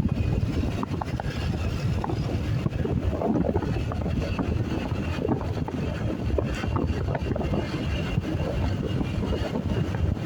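Wind buffeting the microphone while riding a motorcycle, mixed with engine and road noise: a steady, dense low rush.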